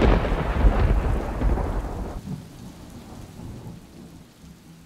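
A thunderclap rumbling away and dying down over about two seconds, followed by a fainter, steady sound of rain.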